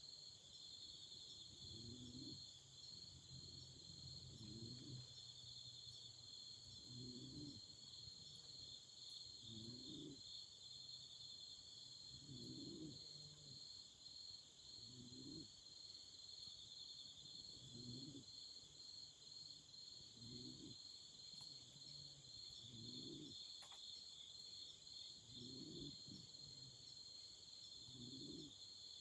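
Faint autumn crickets trilling steadily in high, rapidly pulsing chirps, with a soft low sound coming back every two to three seconds and a single sharp click about three quarters of the way through.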